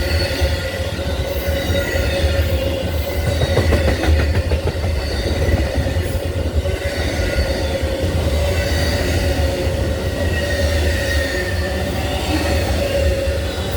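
Cars of Amtrak Train 52, the northbound Auto Train, rolling steadily past at speed: a continuous rumble with wheel clatter on the rails and a steady high wheel squeal.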